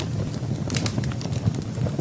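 Firewood burning in a fireplace, crackling with irregular sharp pops over a low, steady rumble of the flames.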